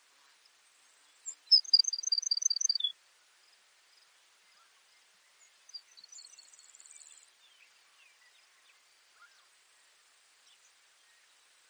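Baird's sparrow singing: about a second and a half in, a quick run of about seven high, evenly repeated notes ending on a lower note, then near the middle a fainter song ending in a high buzzy trill. A faint steady hiss of insects or field noise lies underneath.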